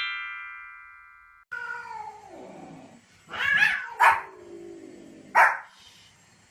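A chiming transition sound fading out in the first second and a half. Then a long, falling animal cry, followed by a few short, high, yapping barks from a small Pomeranian.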